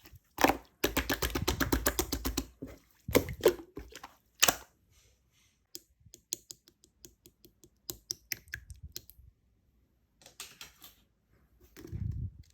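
Opaque slime being squeezed and pressed by hand, giving off rapid crackling clicks and pops: a dense run in the first couple of seconds, then scattered single pops and a duller squelch near the end.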